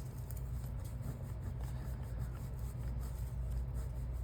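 Steady low background hum, with faint light handling sounds on top.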